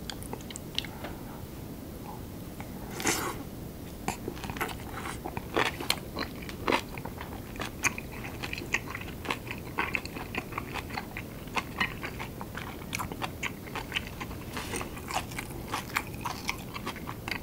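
Close-miked mouth sounds of someone chewing kimchi: many short, irregular wet crunches, with a few louder bites about 3, 6 and 7 seconds in.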